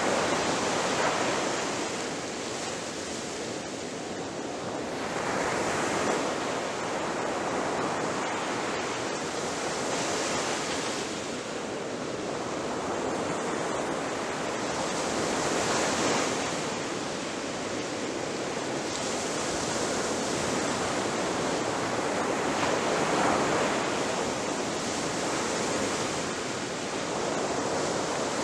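Ocean surf breaking on a beach: a continuous wash of water noise that swells as each wave breaks and eases between them, several surges over the stretch.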